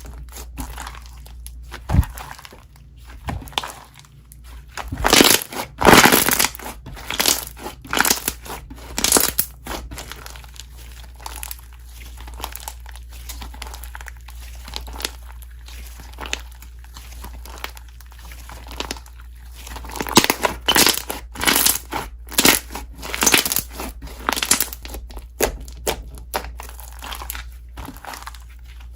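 Slime being squeezed and poked by hand, making irregular crackling pops and clicks. It comes in two busier stretches, a few seconds in and again about two-thirds of the way through.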